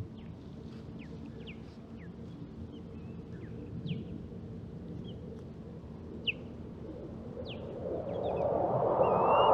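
Osprey calling: a scattered series of short, high, down-slurred whistled notes over a steady low traffic rumble. Near the end a broad rushing noise swells up and becomes the loudest sound.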